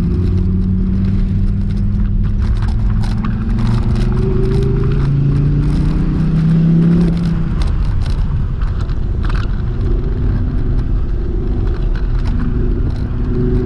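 Dodge Viper SRT's 8.4-litre V10 heard from inside the cabin while the car is driven on track. The engine note climbs through the middle, drops about halfway through, then holds steadier. A few sharp clicks sound over it.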